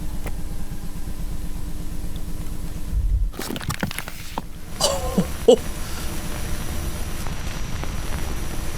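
Low rumbling noise with a steady hum from the found-footage audio of an analog horror tape. About three seconds in it cuts abruptly to a burst of crackles, and a brief wavering, warbling sound follows about two seconds later.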